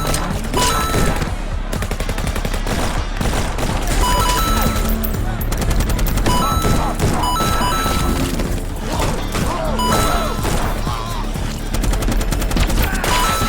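Dense, rapid gunfire from a gunfight sound mix, volleys of shots with no break, over background music.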